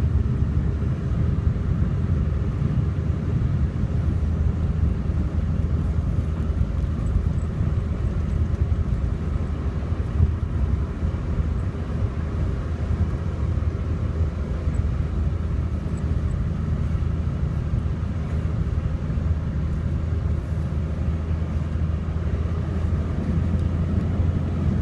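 Car driving on a road: a steady low rumble of engine and tyre noise that holds an even level throughout.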